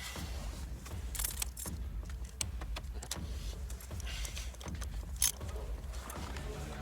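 Steady low hum of a car running, with scattered short clicks and light metallic jingling; one sharp click stands out about five seconds in.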